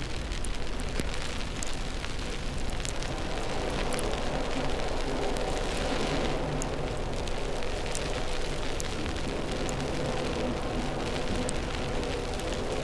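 Steady city street noise in a snowstorm: a low rumble of traffic and engines with a light crackle over it.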